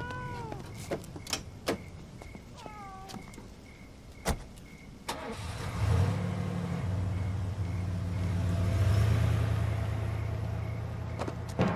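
A few sharp clicks and knocks, then a car engine starts about five seconds in and runs steadily, growing louder as the car pulls away.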